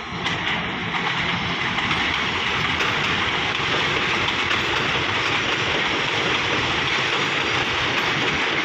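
Diesel railcar passenger train rolling past along the station platform: a steady, loud rumble of wheels on rail.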